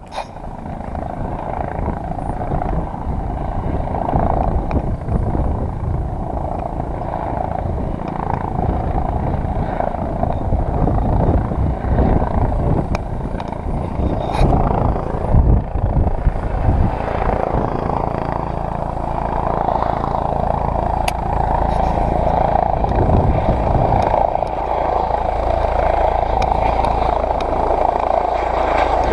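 Helicopter running close by: a steady rotor and turbine noise with a low rumble, getting a little louder over the second half.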